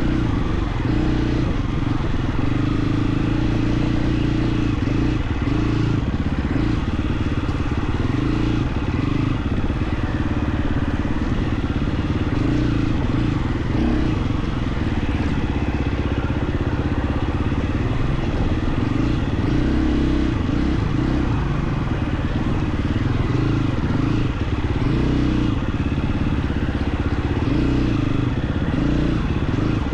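KTM 350 XC-F dirt bike's single-cylinder four-stroke engine running under way, its pitch rising and falling a little with the throttle.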